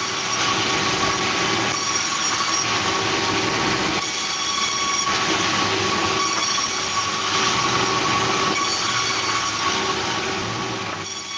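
Sawmill saw running through wood: a loud, steady screeching whine with a strong high tone, starting to fade near the end.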